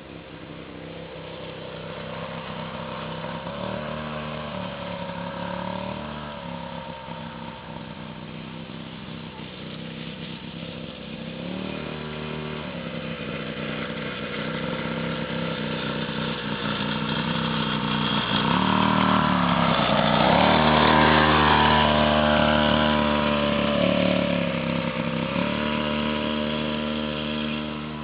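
Motocross bike engine revving up and down through the gears. It grows louder to a peak about three-quarters of the way through, then fades.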